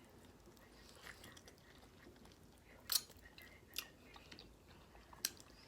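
Quiet close-up chewing with a few sharp wet mouth clicks, the loudest about three seconds in and again near four and five seconds.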